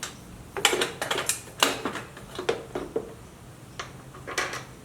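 Metal clanks, clicks and scrapes of an aftermarket FMF exhaust being slid into place on a Yamaha WR450F dirt bike. The knocks come irregularly, in a busy run from about half a second to two seconds in and another cluster near the end.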